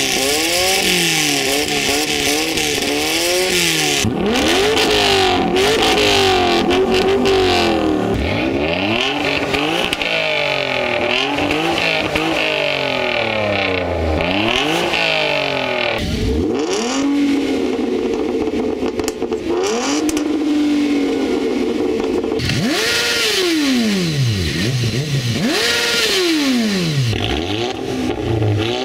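Several cars' engines free-revved in turn, among them a VW Beetle, a Dodge Stealth and a VW Golf: many quick blips rising and falling in pitch one after another. Near the end come two longer revs, each climbing high and dropping back.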